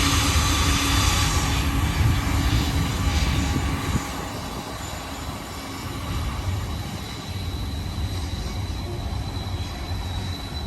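A BNSF freight train on the Cajon Pass rumbling at a distance as it moves away. The sound drops in level about four seconds in.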